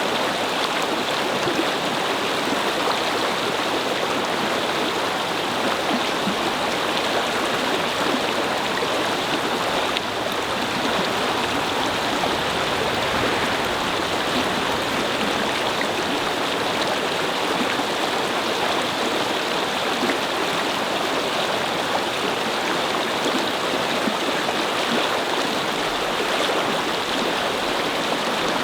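Brook flowing and babbling over stones, a steady rush of running water.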